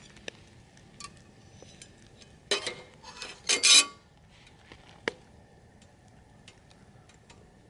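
Metal camp gear being handled: scattered clinks and ticks. Two louder rattling clatters come a few seconds in, and a sharp clink follows about five seconds in.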